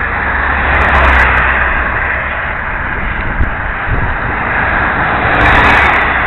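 Wind buffeting the microphone of a helmet-mounted camera on a moving bicycle: a loud, steady rumbling rush that swells about a second in and again near the end.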